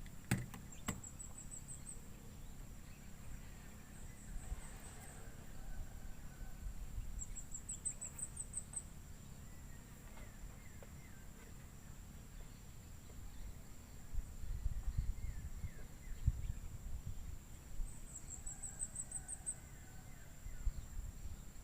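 Outdoor insect and bird chorus: a steady high-pitched insect drone, with short trills of rising chirps a few times and faint bird chirps, over low rumbling wind or handling noise.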